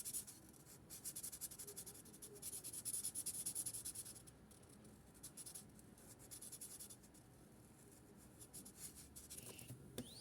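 Marker tip rubbing across paper in quick back-and-forth colouring strokes. The strokes are strongest over the first four seconds, then get lighter and fade out near the end.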